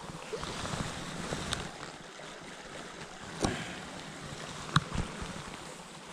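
Stream water running, an even rushing noise, with a few short sharp knocks and clicks from handling near the water.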